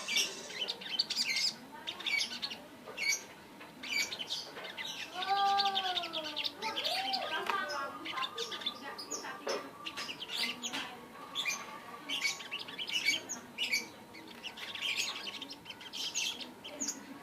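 A sogok ontong songbird chirping and trilling in quick high bursts. A lower call arches up and down about five seconds in.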